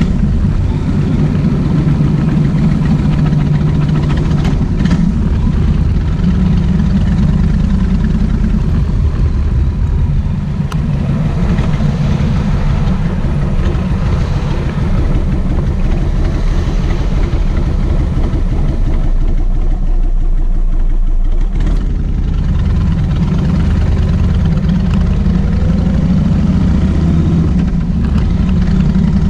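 Kawasaki VN1600 Mean Streak's V-twin engine running while the motorcycle is ridden, its note shifting with the throttle and easing for a moment a little after the middle.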